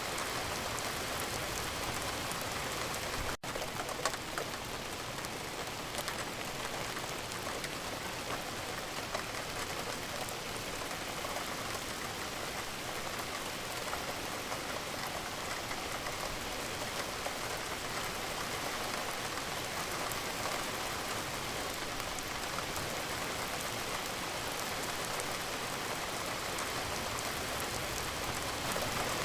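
Steady rain, with many individual drops striking a surface throughout. There is a momentary dropout about three seconds in.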